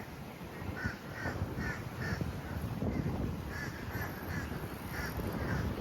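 A bird giving runs of short, harsh, crow-like calls, about two or three a second, in two bursts with a short gap between, over a low steady background rumble.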